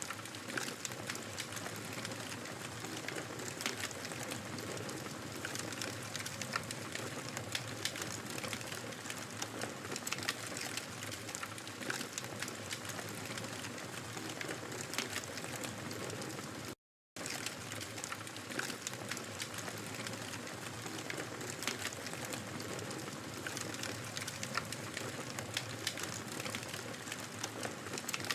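Wood fire in a fireplace crackling and popping steadily, with many small irregular snaps over a soft hiss. About 17 seconds in, the sound drops out completely for a moment, then resumes.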